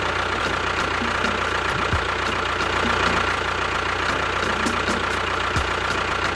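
Engine idling steadily, with a constant low hum and a thin steady whine over it.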